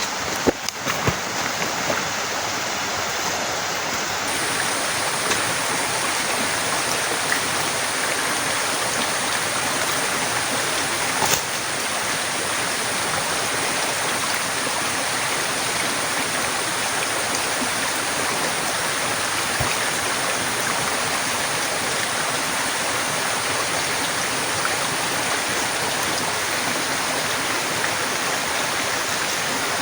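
Heavy rain falling steadily, a dense even hiss, with a few sharp knocks in the first second and another about eleven seconds in.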